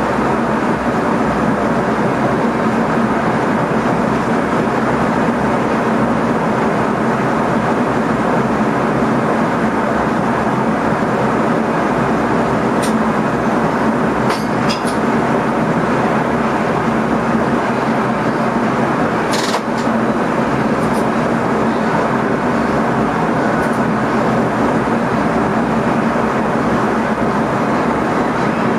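Steady running noise inside the driver's cab of an NS ICM electric train on the move: an even rumble and hiss with a steady low hum underneath. A few short sharp clicks from the track come in the middle stretch.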